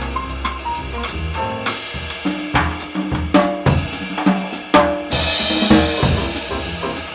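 Live jazz combo playing a swing tune, the drum kit to the fore with snare, bass drum and rimshot strokes over bass and other pitched instruments. A run of accented hits comes in the middle, and a cymbal crash about five seconds in.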